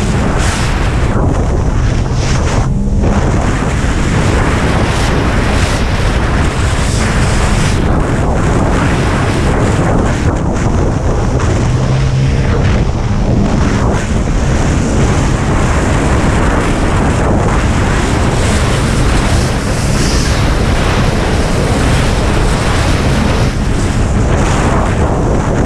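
Jet ski running at speed over water, its engine and spray almost buried under heavy wind buffeting on the microphone.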